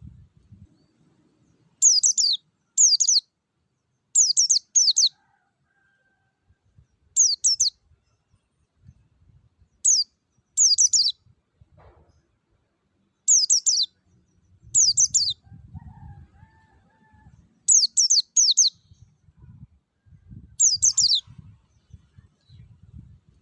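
Pleci (white-eye) singing short, high chirping phrases. Each phrase is a quick run of notes falling steeply in pitch, often two close together, repeating every second or two.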